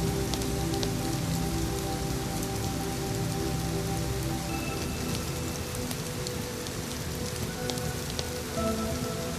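Steady rain falling, with scattered sharp ticks, over soft ambient music of long held notes.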